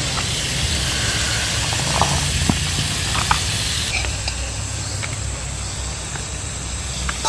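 Stir-fried bamboo shoots sizzling in a wok over a wood fire, with a few light clicks of a metal spoon as the food is served out.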